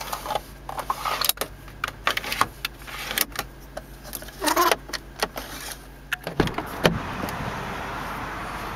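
Car cabin controls being clicked and pressed, with short electronic chirps, over a low steady hum. About six and a half seconds in comes a heavy thump, then a steady rushing noise.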